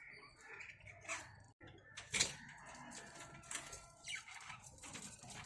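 Scattered clicks and rustling as a birdcage is handled and its door worked, with a sharper knock about two seconds in.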